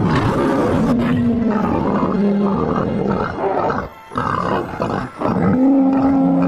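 Bear roar sound effect: loud, drawn-out roars with short breaks about four and five seconds in.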